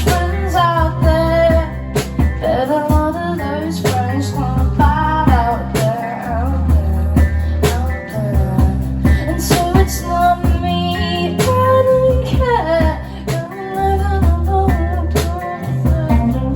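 Live rock band playing a song: drum kit hits, held bass notes and guitar, with a wavering melody line on top.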